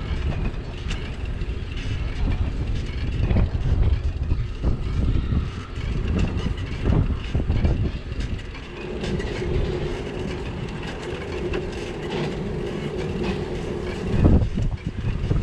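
Riding noise from a bicycle: a continuous rumble with rapid rattles and clacks as it rolls over brick streets. A steady hum joins in from about the middle for several seconds.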